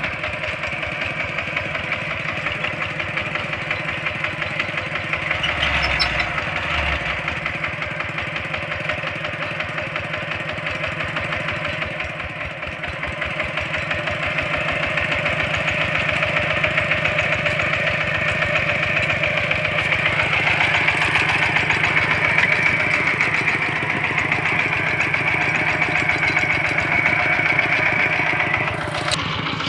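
Single-cylinder diesel engine of a Kubota walk-behind tractor running steadily with a fast, even chugging, growing somewhat louder about halfway through.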